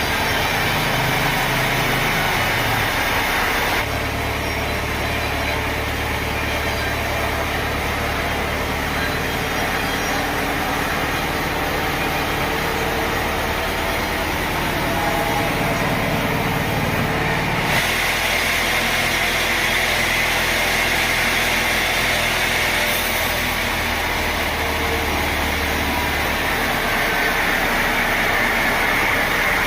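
Sawmill machinery running steadily with a low engine hum. The hum shifts abruptly about 4 seconds in and again about 18 seconds in.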